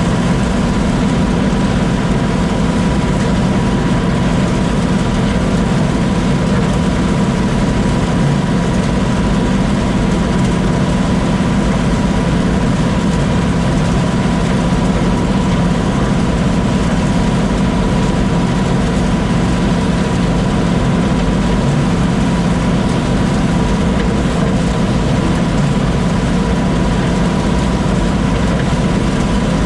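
Combine harvester running steadily: a constant low machine hum with a thin steady whine above it.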